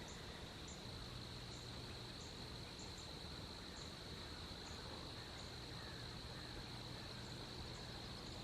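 Faint, quiet lakeside ambience at dawn: a steady high-pitched trill runs throughout, with short high chirps repeating irregularly a few times a second.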